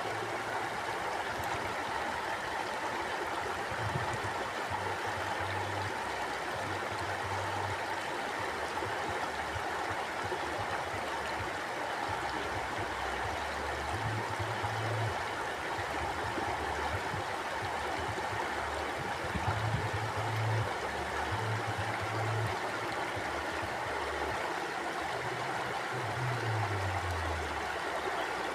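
A stream flowing steadily over stones with an even rushing sound, and low gurgling rumbles that come and go underneath.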